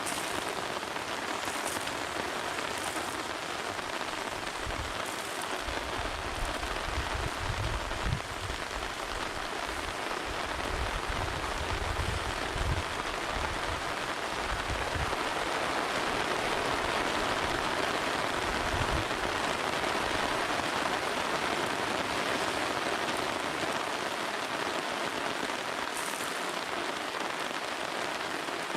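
Steady rain falling, an even hiss of drops, with low rumbles coming and going in the middle part.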